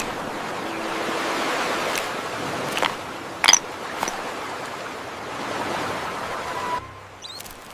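Steady rushing water noise, like surf or underwater ambience, with a few short clicks in the middle. It drops away near the end, where faint high squeaks begin.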